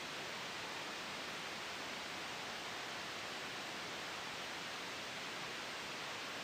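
Steady synthetic white noise for sleep: an even, unchanging hiss.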